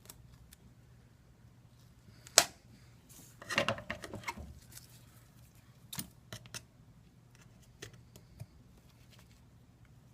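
Small tools and parts being handled during an iPad repair: scattered light clicks, one sharp click about two and a half seconds in, followed by a second of scraping, rustling handling noise.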